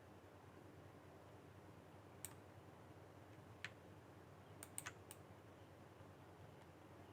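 Near-silent room tone broken by about six sharp computer clicks from the mouse and keyboard, three of them in quick succession about five seconds in.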